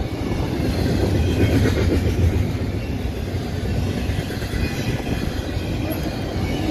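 CSX double-stack intermodal freight cars rolling past, a steady rumble of steel wheels on the rails.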